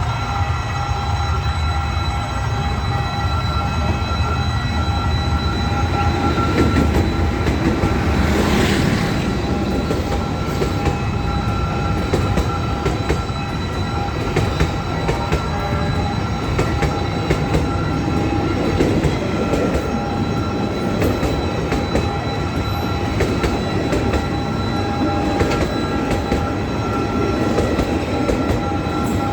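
A passenger train's carriages rolling past at close range, wheels clicking over the rail joints and squealing, over a steady low rumble. Several steady high tones ring without a break.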